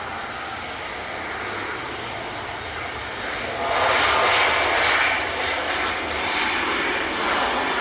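Jet airliner's engines running as it passes, a steady roar that swells sharply about halfway through, then eases off slightly.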